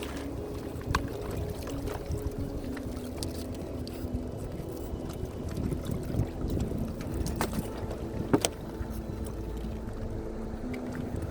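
Ambience aboard a kayak on the ocean: a steady low rumble of water and wind, with a few sharp clicks and knocks, the loudest near the end.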